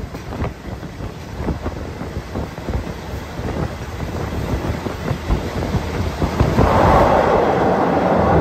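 Wind buffeting a microphone held out of a moving train's window, over the rumble of the train running on the track. A rushing hiss grows louder over the last two seconds.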